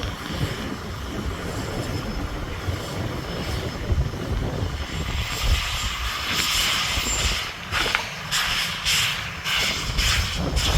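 Narrow-gauge steam locomotive working, a steady low rumble with outdoor noise. About halfway through, a regular chuffing of exhaust beats sets in at about two a second.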